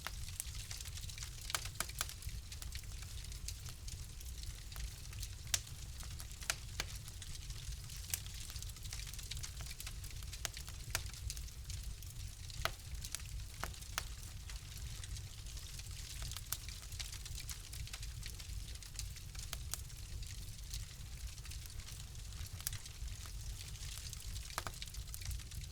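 Wood fire crackling steadily over a low rumble, with irregular sharp pops and snaps scattered throughout.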